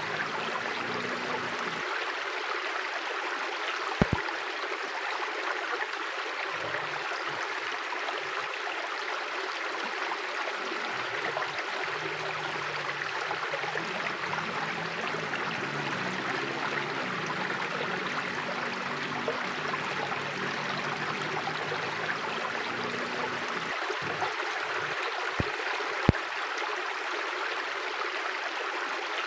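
River water flowing steadily over its bed with an even rushing sound. There are a few sharp clicks, one about four seconds in and two near the end.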